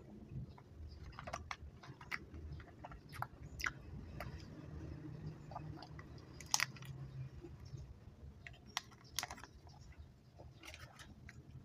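Close-miked mouth sounds of someone chewing chewy chocolate candy: irregular sticky, wet clicks and smacks as the teeth work the sticky candy.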